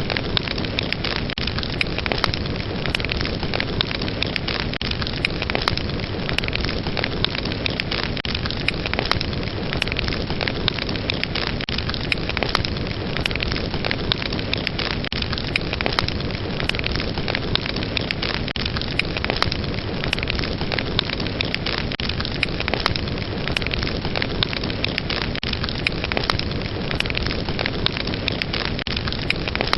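Fire burning with a steady rush of flame and many small sharp crackles and pops throughout.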